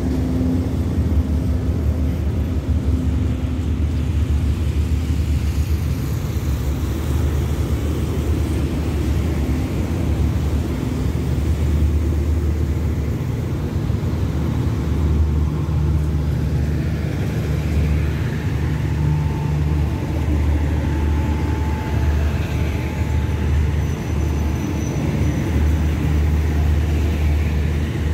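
Diesel train at a station platform: a steady low engine rumble with the running noise of passenger coaches alongside.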